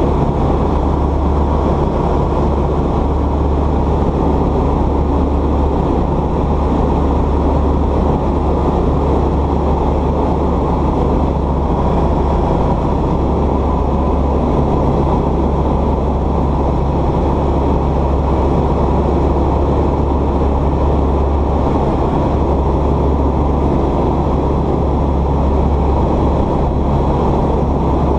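Light aircraft's piston engine and propeller droning steadily in cruise, heard inside the cabin.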